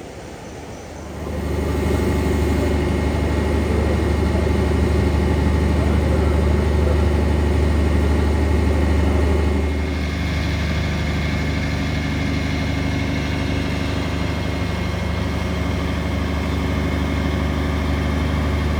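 Diesel engine of a cog railway train running steadily with a low hum. It comes up sharply about a second in and settles to a quieter, slightly different note about ten seconds in.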